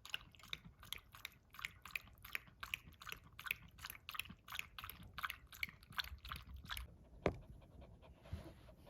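Coton de Tulear dog lapping water, about three laps a second, stopping about seven seconds in. A single sharp knock follows.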